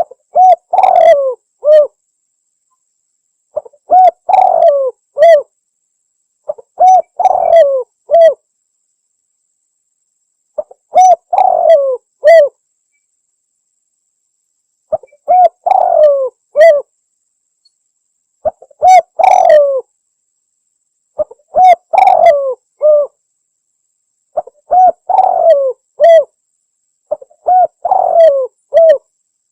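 Spotted dove (tekukur) cooing: a recorded lure call of about nine repeated phrases, each a short run of coos, one every three seconds or so, with complete silence between phrases.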